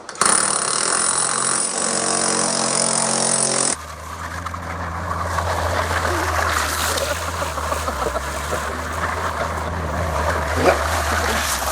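A loud motorised machine runs steadily and cuts off abruptly about three and a half seconds in. A steady low engine hum with a noisy background follows.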